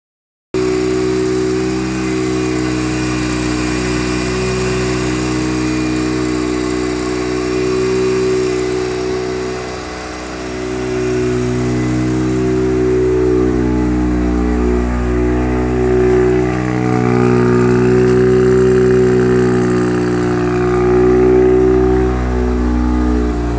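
Mazda RX-7 FD3S's rebuilt 13B twin-rotor rotary engine running steadily on its first start after the rebuild. It dips briefly about ten seconds in and swells slightly a few times later.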